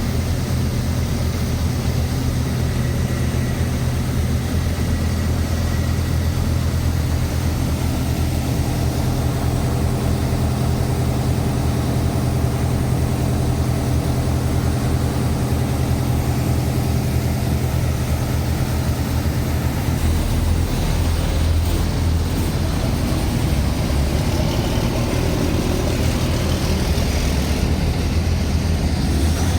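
Heavy truck engine running steadily at low revs, a deep, even drone whose pitch shifts about two-thirds of the way through.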